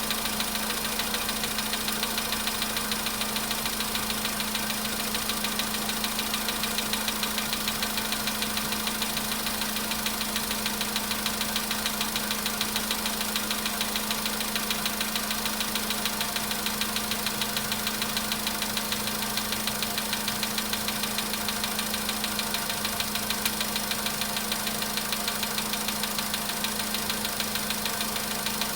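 Volkswagen Polo Sedan engine idling cold, with a rapid, steady metallic knock on every beat: the knock of a cold engine.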